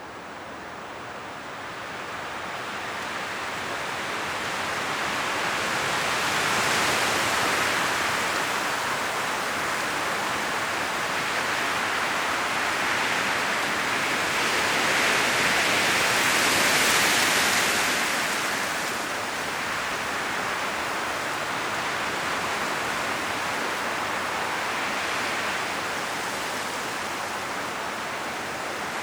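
Strong wind gusting through forest trees, rustling the leaves. The gusts swell and ease slowly, building over the first several seconds, cresting about a third of the way in and again just past the middle, then dying down somewhat.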